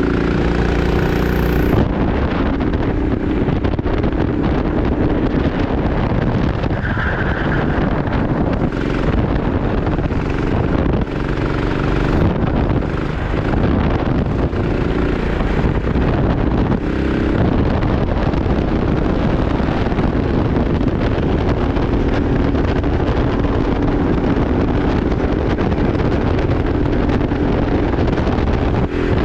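Racing kart engine running at speed, its note rising and falling, with heavy wind noise on the microphone.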